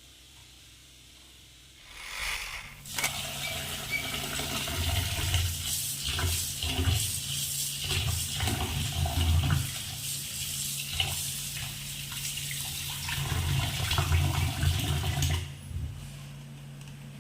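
Kitchen tap running and splashing into a sink, starting about two seconds in and easing off near the end, with scattered knocks from things handled under the water.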